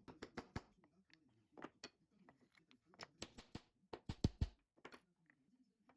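Small hard clicks and knocks in quick clusters, with a heavier knock about four seconds in.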